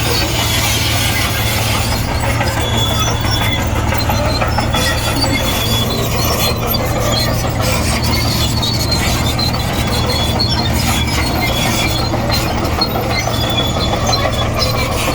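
Komatsu D58E crawler bulldozer working: its diesel engine runs steadily under load, with short high squeals from the steel tracks and undercarriage coming and going.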